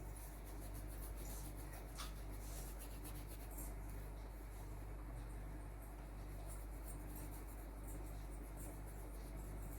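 Faint, repeated scratching strokes of a tool on paper as a parrot painting is worked on, over a steady low hum.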